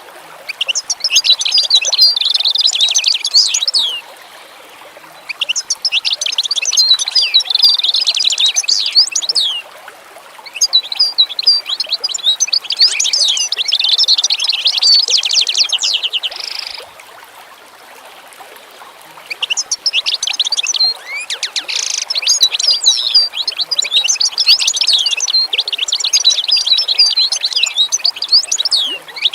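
A songbird singing long, rapid twittering phrases of several seconds each, with short pauses between them, over a faint steady background hiss.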